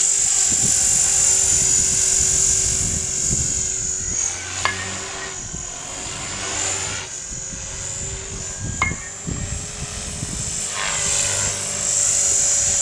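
Trex 450-class electric RC helicopter in flight: a steady high motor and rotor whine that eases off for several seconds in the middle, then comes back up near the end. Two sharp clicks, about four seconds apart, during the quieter stretch.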